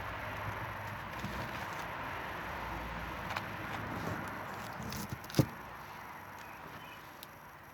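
Campfire burning with a steady hiss and scattered small crackles, and one sharp, loud pop about five seconds in. The fire sound grows a little quieter near the end.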